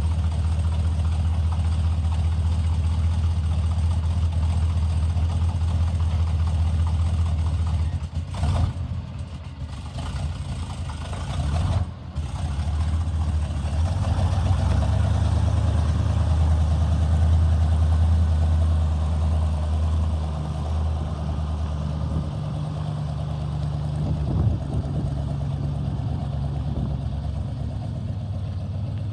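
1974 GMC 6500 truck's engine running, its loudness and pitch shifting a few times, with two brief dips about eight and twelve seconds in.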